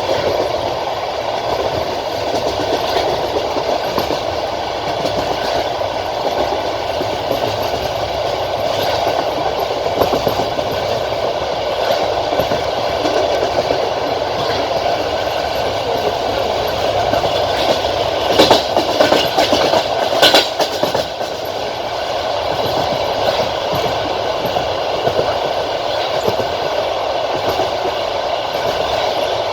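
Passenger train carriage running along the track, its wheels clattering over rail joints under a steady rolling rush. A louder run of sharp knocks comes about two-thirds of the way through.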